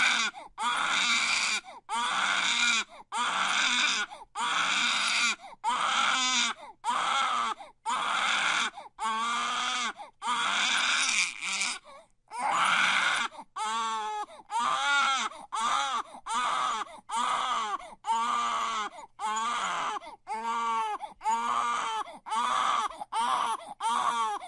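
Baby crying: a run of wailing cries about one a second, each broken off by a quick breath. From about halfway the cries get shorter and quicker, their pitch wavering up and down.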